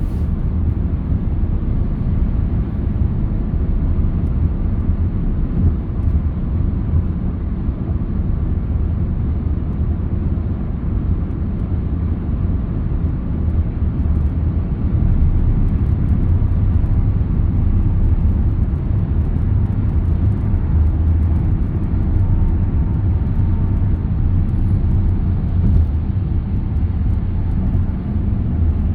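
A car driving along the road: a steady low rumble of tyre and engine noise that holds even throughout.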